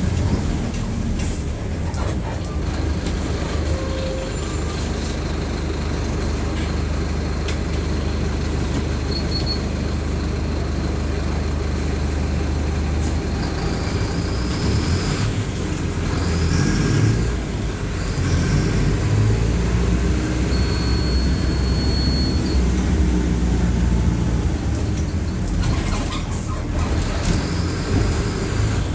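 Mercedes-Benz OF-1519 BlueTec 5 city bus diesel engine running while the bus is under way. The engine note shifts about halfway through with a brief dip in level, then settles again.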